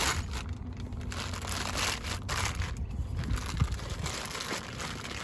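Rustling, crinkling handling noise as parts are moved about, with a few light knocks.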